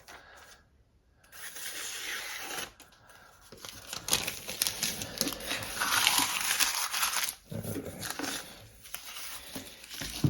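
A sharpening stone on a Tsprof Kadet guided sharpener rasping along the steel edge of a chef's knife. The rasping starts about a second in, is loudest from about four to seven seconds in, then dies away.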